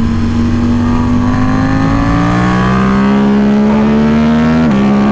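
KTM RC8C's V-twin engine pulling hard under acceleration, its pitch climbing steadily, with an upshift about two seconds in and another near the end.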